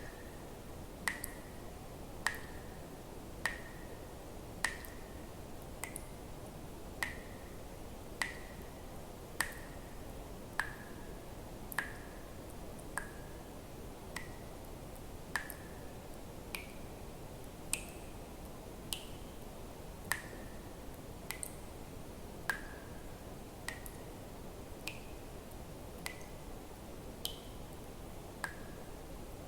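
Water drops falling one at a time, evenly, about one every 1.2 seconds. Each is a sharp click with a short ringing plink whose pitch changes from drop to drop, over a steady low hiss.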